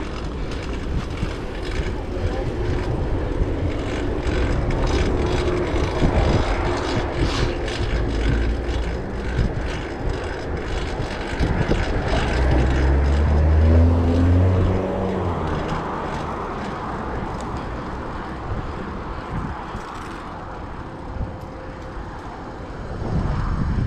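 Wind and road noise from riding a fixed-gear bicycle through traffic. A motor vehicle's low engine hum swells and fades about twelve to fifteen seconds in.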